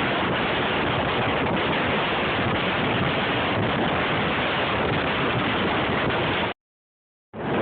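Strong blizzard wind buffeting the microphone, a steady, dense rush of noise. It cuts out to dead silence for just under a second near the end, then comes straight back.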